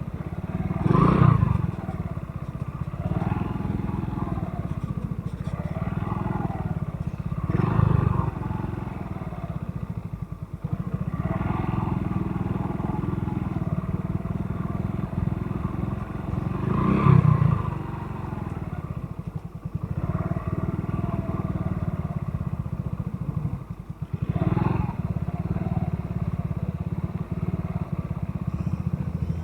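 Motorcycle engine running on the move, its pitch rising and falling with the throttle, with four short louder surges of noise.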